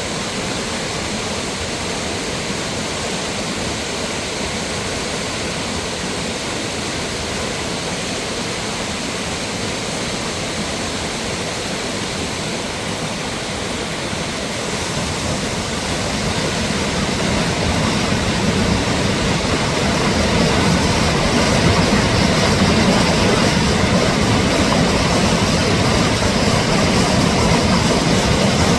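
Mountain waterfall, rushing water in a steady, loud, even wash that grows louder and deeper from about halfway through.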